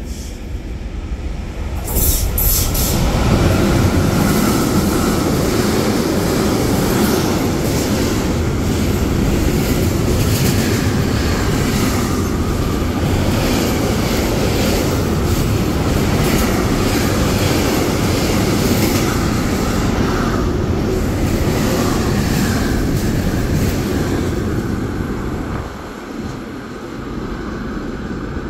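A train passing through a station. The rush of wheels and cars on the rails starts suddenly about two seconds in, holds for some twenty seconds, then drops off near the end.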